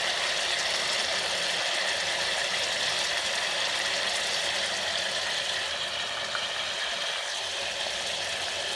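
Chicken and sliced onions sizzling steadily in hot oil in an aluminium pressure cooker.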